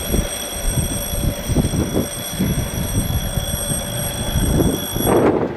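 TEM-TMH diesel locomotive and its maintenance train rumbling along the track as they move away, an uneven low rumble.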